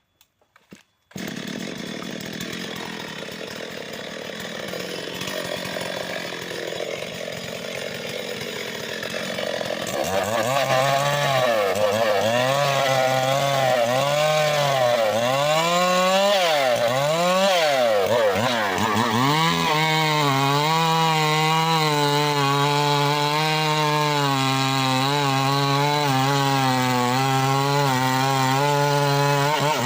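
Petrol engine-driven saw running. After a lower, rougher stretch, the engine revs up and down several times from about ten seconds in, then holds steady at high revs.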